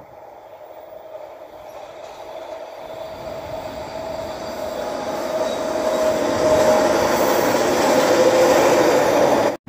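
A Toronto Line 3 Scarborough RT train approaching and growing steadily louder, with a steady whine that drops slightly in pitch as it nears. The sound cuts off suddenly near the end.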